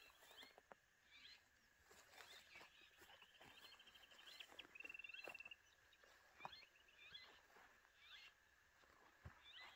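Faint birds calling at dusk: scattered short chirps and quick down-sweeping calls, with a rapid trill near the middle, over a faint steady high tone.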